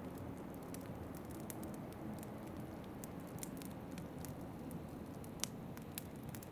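Wood fire crackling with scattered sharp pops, the loudest about five seconds in, over a steady low rush of wind.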